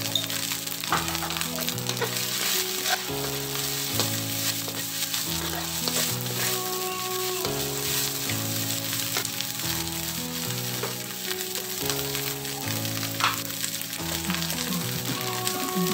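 Snail meat sizzling as it stir-fries in a metal wok, a metal spatula stirring and scraping the pan with scattered short clicks. Background music plays underneath.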